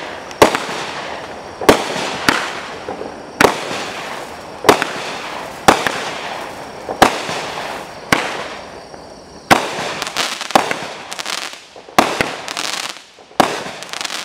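Dominator Helion 200-gram fireworks cake firing shot after shot: about a dozen sharp bangs roughly a second apart, with crackling and fizzing from the strobe and crackle-palm effects between them.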